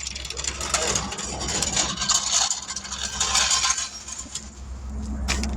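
Irregular metallic rattling, clinking and scraping, as of tools and wheel hardware being handled, over a steady low hum.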